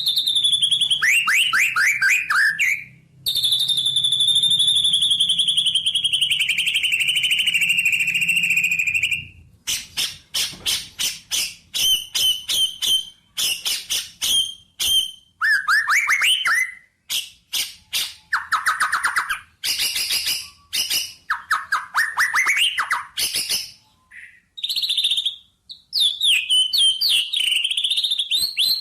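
A songbird singing: a long high whistled note held for about six seconds and slowly falling, then quick runs of sharp chirps and short trills.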